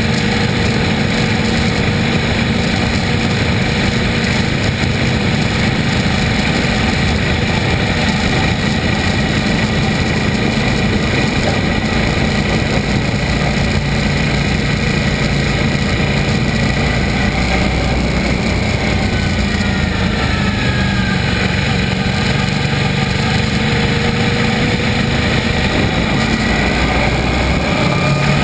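Motorcycle engine running steadily on the move, with heavy road and wind noise. About twenty seconds in, a faint whine slowly drops in pitch.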